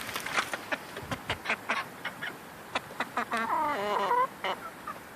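Chickens calling: a run of short clucks, then one wavering, drawn-out call about three seconds in, followed by a few more clucks.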